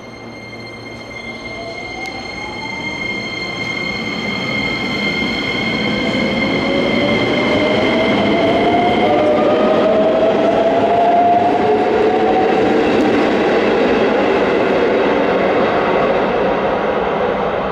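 JR West 125 series electric train pulling out: its traction motors give a whine that climbs steadily in pitch as it gathers speed, over rising wheel and rail noise that grows loud and stays there. A steady high tone stops about nine seconds in.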